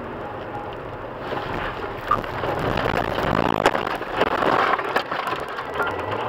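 Vehicle and road noise with wind on the microphone, growing louder from about a second in. Several sharp knocks are heard over it, the sharpest a little past the middle.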